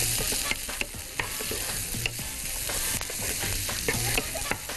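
Beef cubes, onion and celery sizzling in a little oil in a hot frying pan while a wooden spatula stirs them, scraping and knocking against the pan many times.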